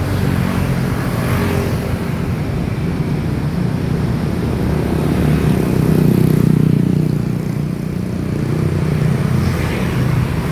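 Motorbike engine running while riding in traffic, with road noise; it swells a little past the middle.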